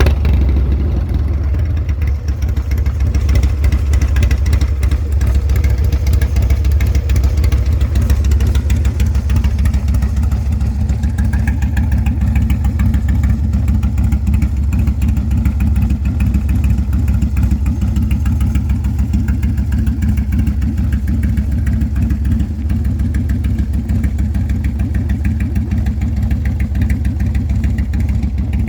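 Harley-Davidson Low Rider S 110-cubic-inch V-twin idling steadily through a Sawicki Speed 2-into-1 exhaust, freshly started.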